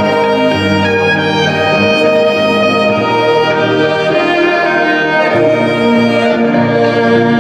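Instrumental live music: a bowed violin playing long held notes over a line of low bass notes that change every second or so.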